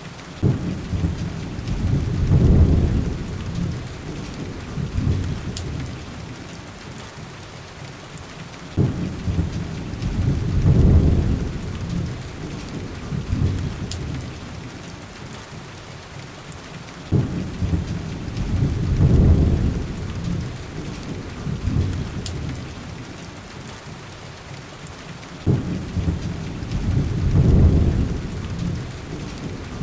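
Heavy rain falling steadily, with a low rumble of thunder that starts suddenly, swells and fades four times, evenly about every eight seconds. A few faint clicks sit among the rain.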